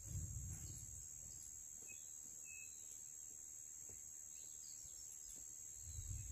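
Quiet ambience with a few faint, short chirps from a small bird over a steady high-pitched tone, with brief low rumbles near the start and near the end.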